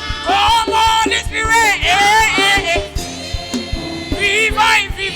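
Live gospel music: vocals gliding and bending in long sung runs over a band with a steady drum beat.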